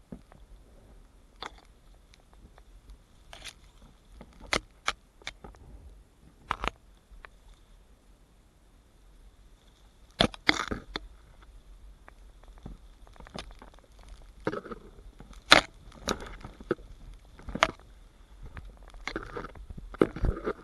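Irregular sharp clicks and knocks, about twenty of them scattered unevenly, with a faint steady high-pitched whine underneath.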